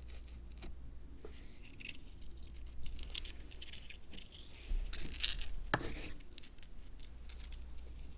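Light scratching, rustling and clicking as small materials are handled while building a miniature zen-garden diorama, with a sharp click a little past the midpoint.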